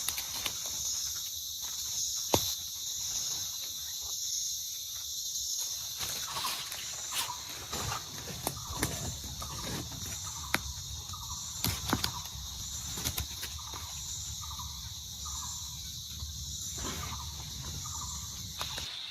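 Jungle insects buzzing steadily in a high, pulsing chorus, with a short chirping call repeated about once a second through the middle and scattered sharp clicks and snaps.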